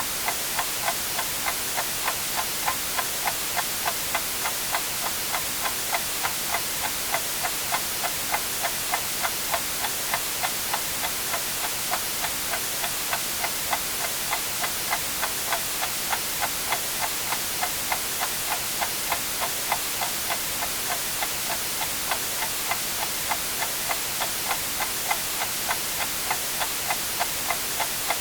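A clock ticking steadily, about two ticks a second, over a continuous white-noise hiss.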